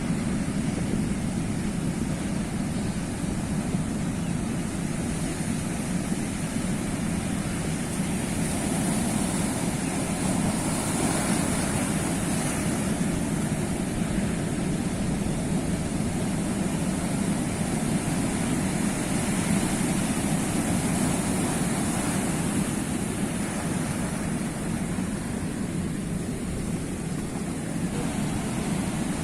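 Sea waves washing on the shore in a steady continuous rush, with one wave swelling louder about a third of the way in.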